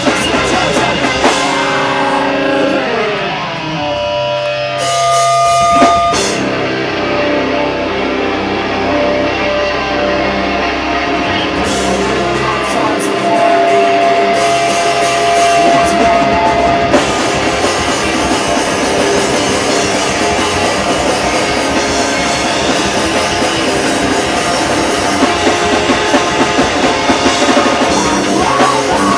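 Live heavy band playing loud and dense: distorted electric guitars over a drum kit, with a sliding guitar figure a few seconds in and a few long held notes later.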